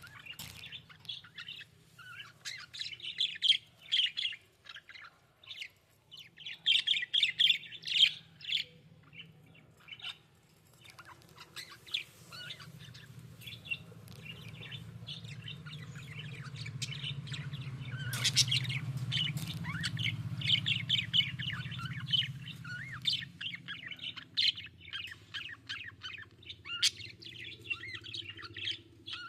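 Budgerigars chirping and warbling in dense runs of short, rapid chirps, over a low hum that swells in the middle and fades again.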